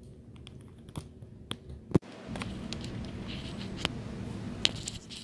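Handling clicks and rustles as a microphone is being plugged in, with a loud pop about two seconds in as the plug connects; after it the background noise steps up and stays louder, with more scattered clicks.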